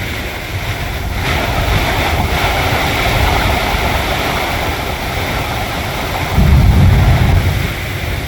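Squall wind and heavy rain, a steady rushing hiss with wind buffeting the microphone; a strong gust hits about six seconds in and rumbles for about a second.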